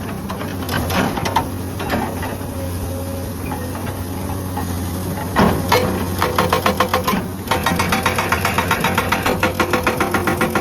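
Komatsu excavator's diesel engine running, with a few scattered knocks, then a hydraulic breaker hammering rock with fast, even blows from about six seconds in, pausing for a moment and starting again.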